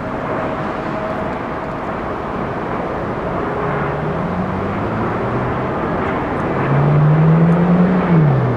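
Jet airliner engine noise, a steady roar, with a humming tone that rises in pitch about four seconds in, grows louder and then drops in pitch near the end.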